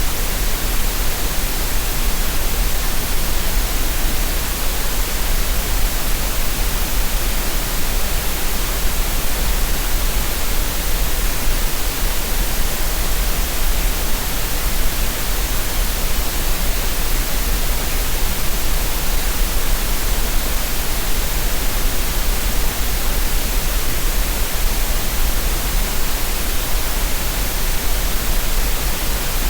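Synthetic green noise played for relaxation or tinnitus relief: a steady, unchanging hiss with no breaks.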